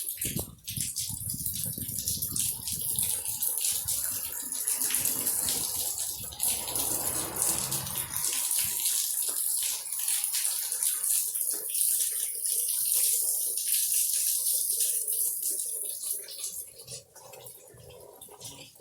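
Heavy rain falling and splashing: a dense hiss full of tiny drop ticks, with a low rumble under the first half that stops about eight seconds in. The rain sound drops off noticeably near the end.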